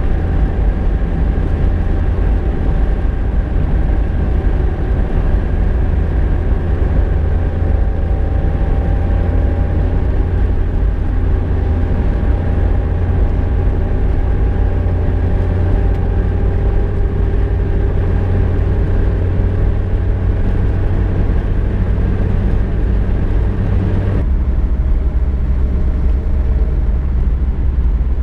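VW Golf Mk2 heard from inside the cabin while driving: a steady engine drone over deep road rumble, with engine tones that drift slowly. About three quarters of the way through, the higher engine tones drop away abruptly and the low hum shifts down.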